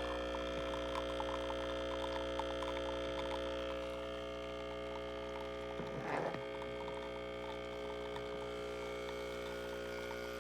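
Breville Barista Express espresso machine's vibratory pump humming steadily while pulling a shot, with a brief rattle about six seconds in.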